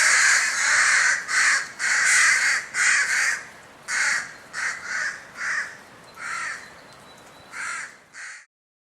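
Crow giving a rapid series of harsh caws, close together and loud at first, then fainter and more widely spaced, cutting off suddenly near the end.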